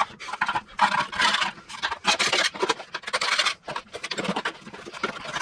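A flat scraper blade scraping caked wet grass clippings off the underside of a Toro 21-inch Commercial mower's aluminium deck, in repeated irregular strokes.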